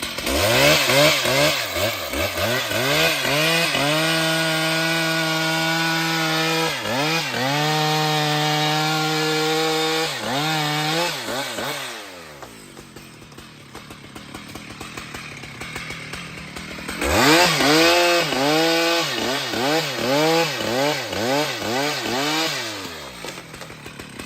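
Two-stroke chainsaw running hard under throttle, holding a steady high pitch for several seconds with a couple of brief dips. Partway through it drops to a much quieter low speed, then revs up and down about once a second in a string of short throttle blips before settling back down near the end.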